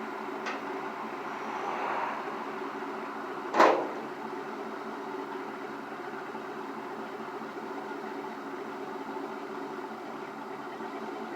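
A steady mechanical hum, with a small click about half a second in and one loud knock about three and a half seconds in.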